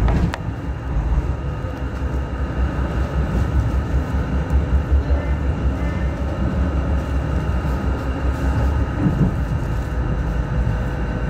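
Hong Kong Light Rail Phase I light rail car running between stops, heard from inside the car: a steady low rumble of wheels on rails and the running gear.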